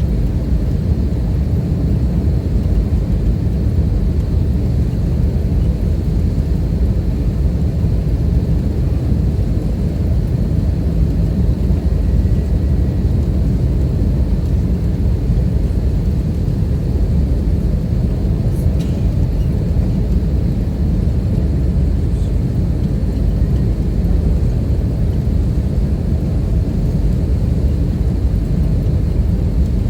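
Steady low rumble of engine and airflow noise inside the cabin of an Airbus A320-214 airliner with CFM56 engines, with a faint click about two-thirds of the way through.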